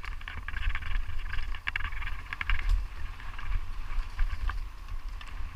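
Wind buffeting the microphone with a constant low rumble, over a steady crackling rattle full of small clicks.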